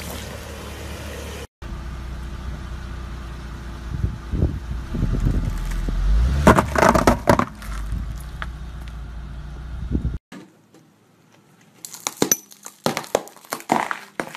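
A car's tyre rolling slowly over brittle objects and crushing them: a low rumble from the car, with crunching and cracking about halfway through. After a quieter gap, hard-candy lollipops crack and shatter under the tyre near the end.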